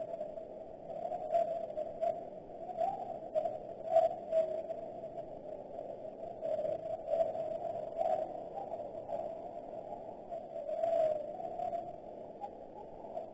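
Garden birds with irregular short, sharp chirps or clicks, several loud ones scattered through, over a steady wavering drone.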